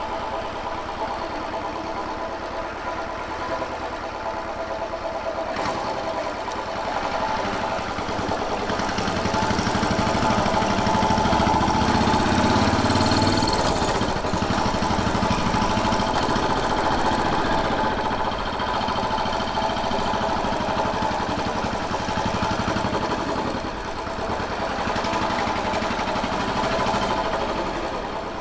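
Royal Enfield Bullet 500's single-cylinder four-stroke engine running on the move, growing louder for a few seconds around the middle, then easing back.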